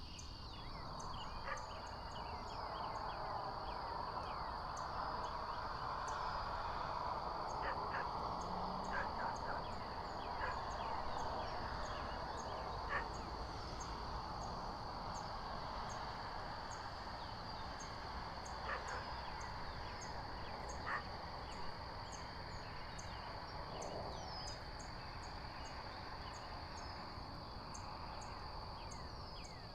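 Outdoor ambience with many short, scattered bird chirps over a steady rushing noise and a constant high-pitched tone.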